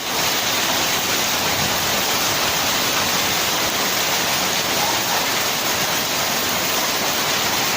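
Hailstorm: hail and heavy rain pelting down in a steady, dense hiss without a break.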